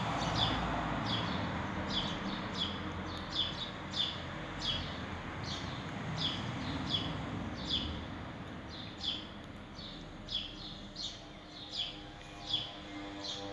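A small bird chirping over and over, short high chirps that fall in pitch about twice a second, over a steady low background noise.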